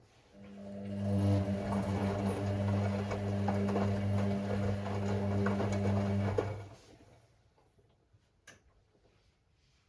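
Hoover Six Sportswear AI130 washing machine tumbling its drum during the wash: the drum motor hums steadily for about six seconds, with the load and water churning inside, then stops for a pause. A single click comes near the end of the pause.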